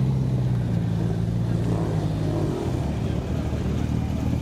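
A car engine running at a steady, low, even note, which changes about two and a half seconds in.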